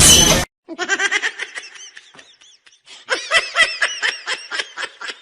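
High-pitched human laughter in quick repeated bursts, which picks up again about three seconds in, after a brief loud noise that cuts off abruptly at the start.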